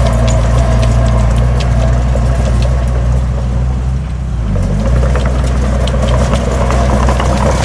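Heavy diesel engine of earthmoving machinery running steadily, with scattered short clanks and rattles over it; the engine note dips briefly about four seconds in, then picks up again.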